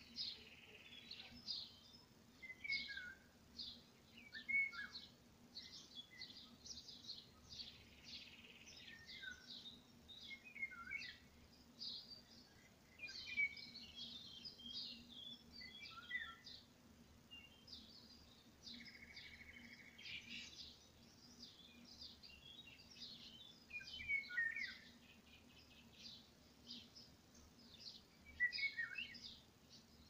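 Songbirds chirping and singing, many short high calls one after another, with a few brief buzzy trills among them.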